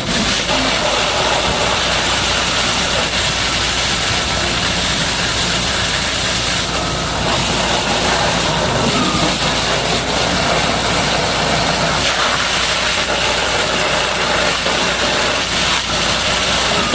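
Steady hiss of a high-pressure water jet washing down heavy equipment, over an engine running steadily at idle.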